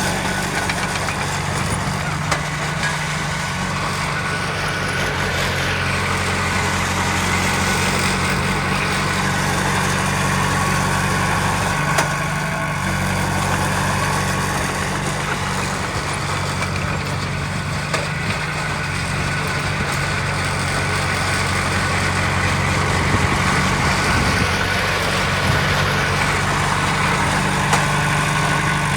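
Heavy diesel engine of earthmoving machinery running steadily at low speed, with a few faint knocks along the way.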